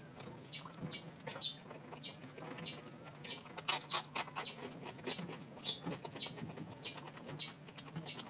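Eating sounds close to the mouth: a run of short wet smacks and clicks of chewing, with a quick cluster of sharper clicks about midway.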